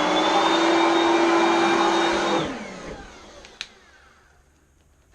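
Oreck Elevate Conquer upright vacuum running with a steady high whine, then switched off about two seconds in, its motor winding down in a falling whine. A single click follows about a second later.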